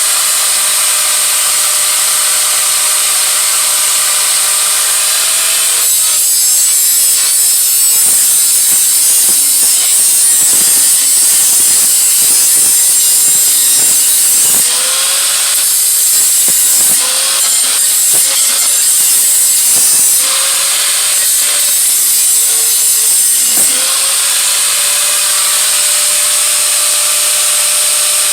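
A small high-speed rotary grinding tool cleaning up metal on an exhaust head pipe joint. It runs with a steady whine and hiss, gives way to a stretch of scratchy grinding with knocks, then is started up again about five times, each time rising in pitch as it comes up to speed.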